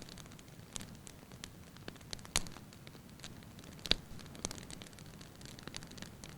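Wood fire burning with a soft steady hiss and scattered sharp crackles and pops from the logs, the loudest a couple of seconds in and again about four seconds in.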